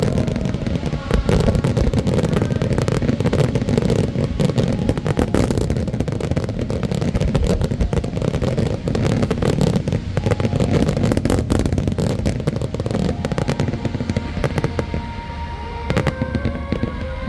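Large fireworks display: a dense barrage of shell bursts, booms and crackling, easing off a little about three-quarters of the way through.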